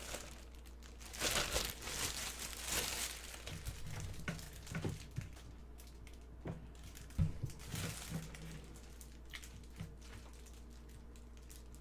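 Scattered crinkling and rustling from things being handled, with a few soft knocks, over a low steady hum.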